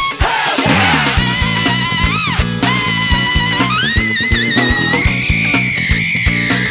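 A band playing a jazz-funk groove. A lead instrument holds long notes that bend and waver over a repeating bass line and steady drum hits.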